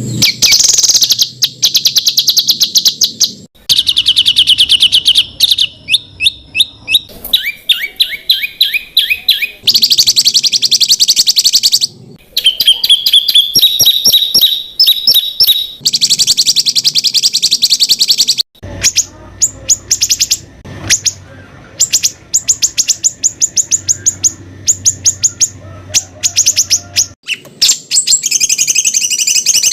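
Songbird masteran training recording: rapid, harsh staccato trills ('tembakan') of fast repeated high notes in bursts of a few seconds, some in stepped series, then a stretch of sharp notes repeated several times a second.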